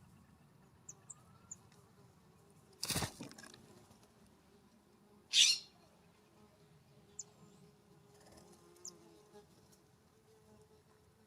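Wild birds at a ground feeder: scattered short, high chirps, a loud thump about three seconds in, and a brief, loud, harsh burst about five and a half seconds in.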